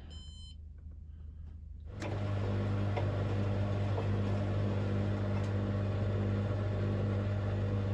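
Hoover DynamicNext washing machine starting a drain and spin programme: a short beep, then about two seconds in a steady low hum starts, most likely the drain pump running.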